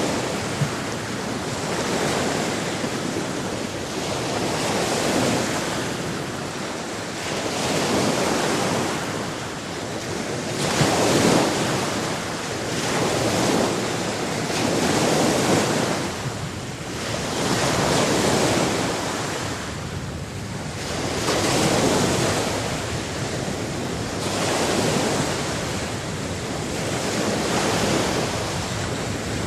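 Sea waves surging and washing in, a dense rushing noise that swells and falls back every few seconds.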